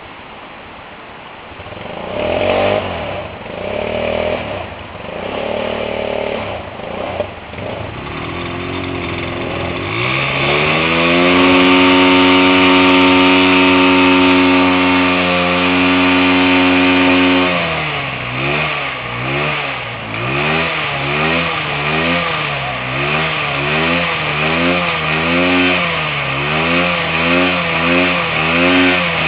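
Motorcycle engine revving. First come short blips, then the revs climb to a steady high note held for several seconds, then they rise and fall again and again, about once a second.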